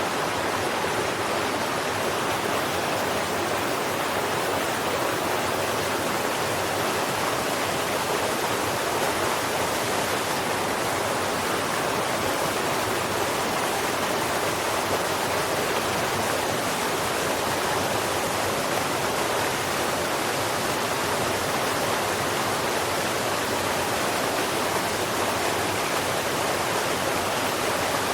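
Steady rushing of flowing water, like a stream, at an even level with no changes.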